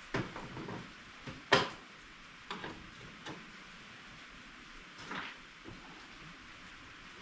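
Scattered sharp metal clanks and knocks of hand tools on the baler's bolts, the loudest about a second and a half in, over a steady hiss of rain.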